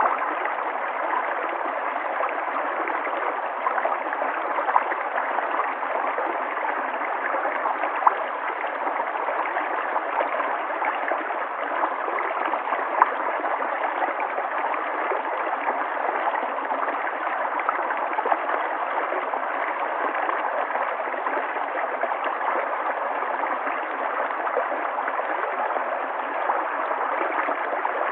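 River water flowing and gurgling over stones in a steady rush, with small splashes now and then.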